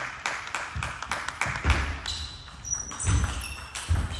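Scattered clapping in a sports hall thinning out over the first second and a half. Then a few dull thumps and short high squeaks follow, the sounds of play and movement around the table tennis table.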